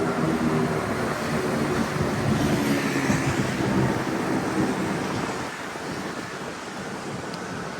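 Street traffic: a motor vehicle's engine runs close by with a low droning hum over rushing road noise for about five seconds, then fades as it passes.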